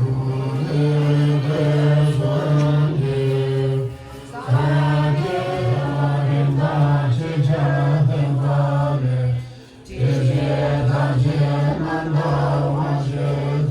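Background music of low, sustained chanting voices holding long notes, with two brief pauses between phrases.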